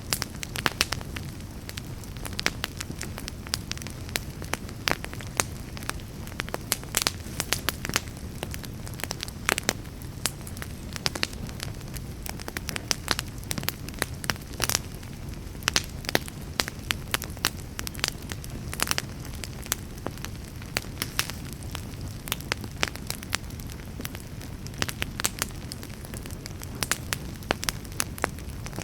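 Wood fire burning in a fireplace, with a steady low rumble of flames and frequent sharp crackles and pops from the burning logs.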